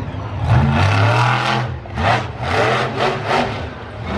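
Monster truck engine revving in surges: one longer rev about half a second in, then several quick, short blips of the throttle.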